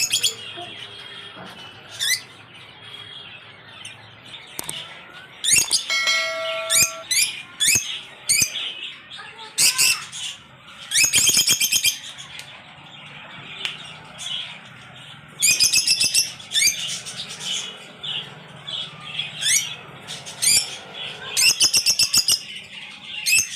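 A flock of small pet parrots in a breeding aviary chirping and chattering, with loud bursts of rapid chatter every few seconds and one longer held call about six seconds in.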